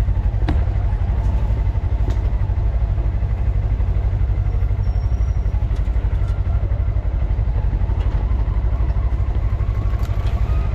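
Engine of a Polaris Xpedition four-seat side-by-side running steadily while under way, a continuous low drone with a fast, even pulse.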